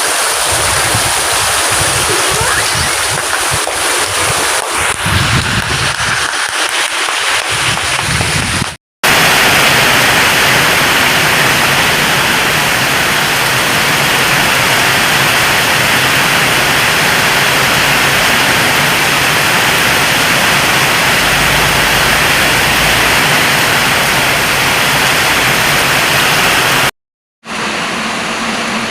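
Heavy tropical downpour: a loud, steady rush of rain and running water, broken by two short drop-outs to silence.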